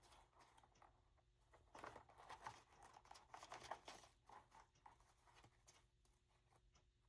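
Faint rustling and light taps of paper ephemera being handled and sorted, busiest about two to four seconds in, over near-silent room tone.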